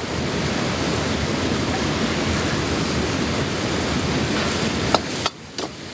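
Pork tripe and pickled cabbage sizzling in a hot wok during stir-frying: a steady, dense hiss that swells up at the start and cuts off suddenly about five seconds in, with a sharp click just before it stops.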